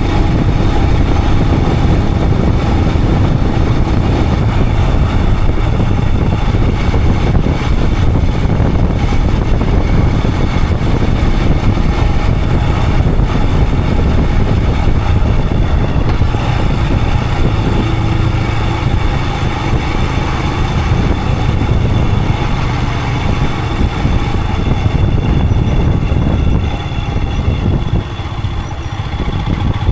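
Royal Enfield Himalayan 411's air-cooled 411 cc single-cylinder engine running steadily as the motorcycle is ridden, easing off a little near the end.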